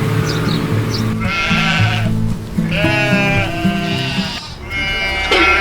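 A sheep bleating three times, long wavering calls, over background music with steady held notes. These are the calls of a trapped, injured sheep.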